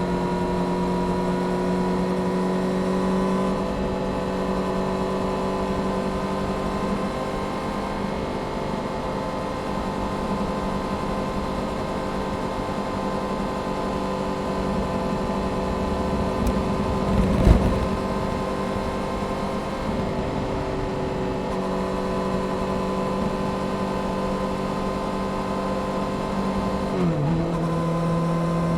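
Honda CBR600F Sport's inline-four engine running steady under way through a Delkevic aftermarket exhaust, with road and wind noise underneath. A brief loud whoosh about two-thirds of the way through, and near the end the engine note dips and settles lower, as at a gear change.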